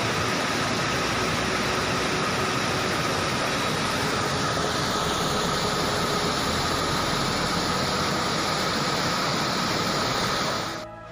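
Steady rushing of water from a swollen mountain stream in the rainy season.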